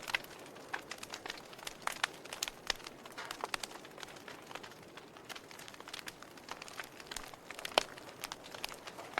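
Wood fire crackling in a fireplace: irregular snaps and pops over a soft hiss, with one sharper pop about eight seconds in.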